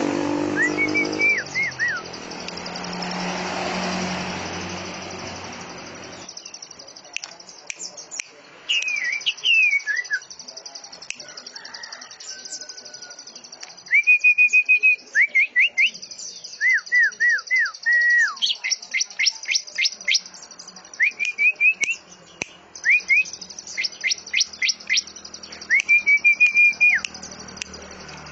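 Songbird singing in separate whistled phrases: held high notes, quick runs of falling notes and fast upward sweeps, over a steady high hiss. A low rumble under the first six seconds cuts off suddenly.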